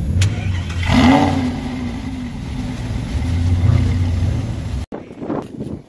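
Lamborghini Gallardo V10 starting up: a click, then about a second in the engine catches with a sharp rising flare of revs and settles into a steady high fast idle. The sound cuts off abruptly near the end.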